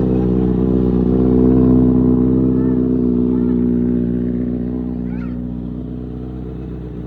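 2024 Kawasaki Ninja ZX-6R's inline-four engine idling steadily on a cold start, exhaling through an Arrow full exhaust system. It grows a little louder about two seconds in, then gradually gets quieter.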